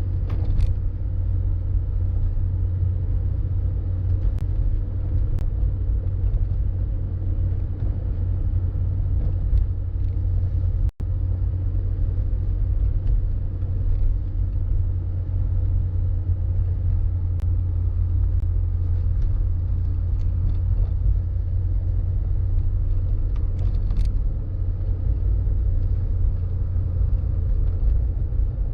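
A car driving steadily, heard as a constant deep rumble of road and wind noise, with a few faint ticks. The sound drops out for an instant about eleven seconds in.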